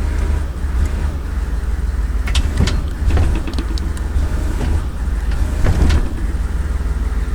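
Diesel engine of a Chevrolet 3500 bucket truck idling steadily with a low rumble while the boom's hydraulic controls are worked, with a few clicks and knocks about two to three seconds in and again near six seconds.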